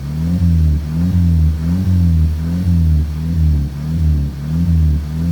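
Volkswagen engine revved in quick repeated blips by pumping the gas pedal, about two a second, its pitch rising and falling with each press.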